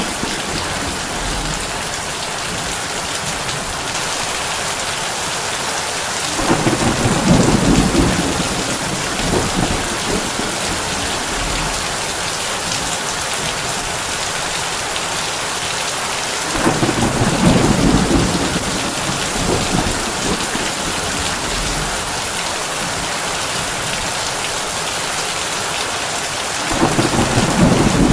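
Heavy rain falling on a tin roof, a steady hiss, with low rumbles of thunder rolling in three times, about ten seconds apart.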